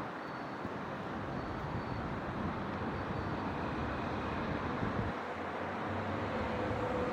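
Distant city traffic: a steady hum of road noise with a low rumble, slowly swelling toward the end.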